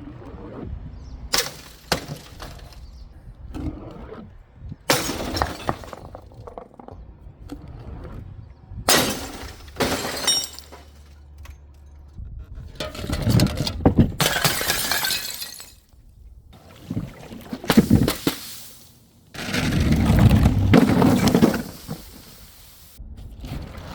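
Glass bottles and jars smashing: a series of about half a dozen separate shattering crashes, with glass shards crunching and clinking between them.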